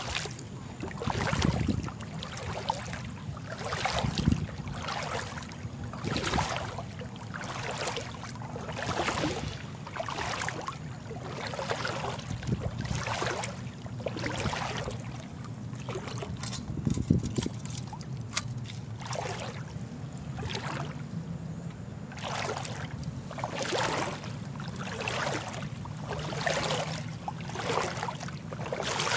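Footsteps wading through shallow creek water, a splash and slosh with each step at about one step a second.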